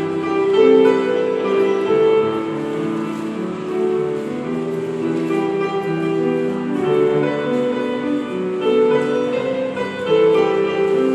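Piano playing a slow melody over sustained chords.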